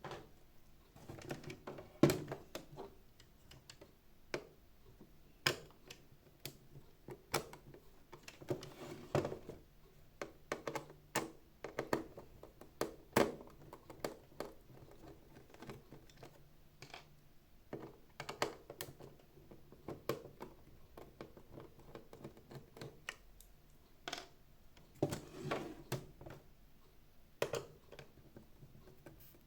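Irregular clicks, taps and knocks of plastic housing parts and small tools being handled while a robot vacuum is taken apart, with no steady rhythm.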